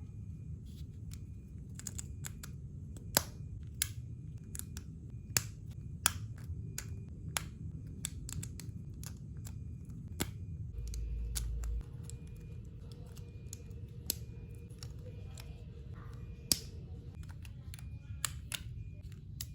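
Plastic building bricks clicking and snapping together as a model is assembled: sharp, irregular clicks, some much louder than others, over a steady low room hum.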